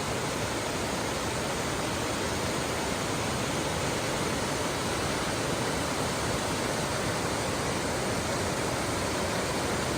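Bond Falls, a broad waterfall on the middle branch of the Ontonagon River, rushing with a steady, unbroken roar.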